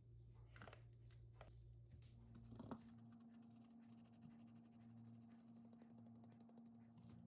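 Near silence: a few faint clicks in the first three seconds, then a faint steady hum with fine, fast ticking.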